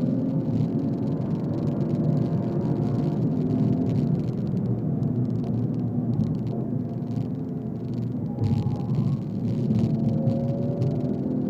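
BMW 135i's turbocharged straight-six engine pulling hard on track, heard from inside the cabin over road and tyre noise. The engine note eases slightly partway through and climbs again near the end.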